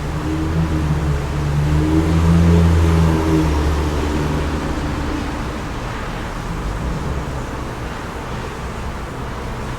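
A car passing by: its engine hum swells to a peak about two to three seconds in, then fades away. A steady rush of wind runs underneath.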